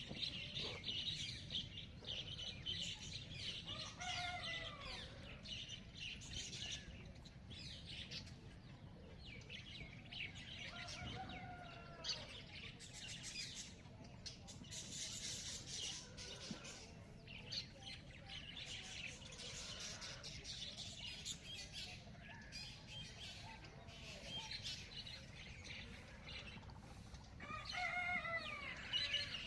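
Many small birds chirping and calling over one another, with a lower, drawn-out call from another bird a few times: about 4 seconds in, at about 11 seconds, and near the end.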